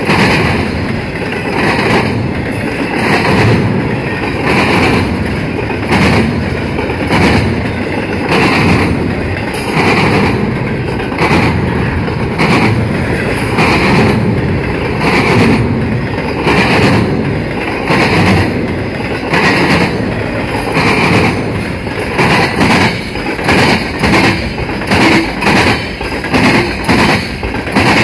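Freight train rolling past close by, its steel wheels clacking rhythmically over the track under a steady rumble. The clacks come about once a second at first and then in quicker pairs near the end, as shorter boxcars pass.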